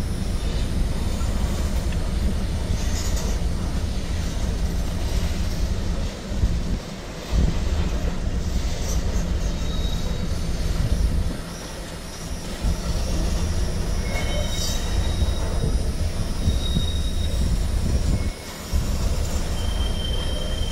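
Norfolk Southern manifest freight train's covered hopper cars rolling past: a steady heavy rumble of wheels on rail, which dips briefly a few times, with short high wheel squeals now and then.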